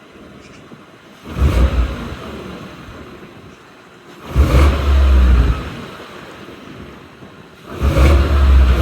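Ford F-150's 5.0 Coyote V8 on its stock exhaust, blipped three times from idle about three seconds apart, each rev rising quickly and falling back toward idle.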